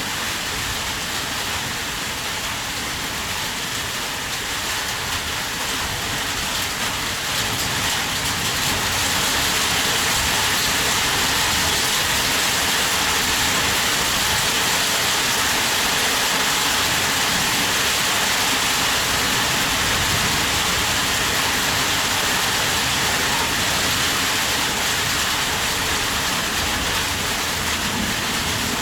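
Heavy rain falling steadily, growing a little heavier about eight seconds in.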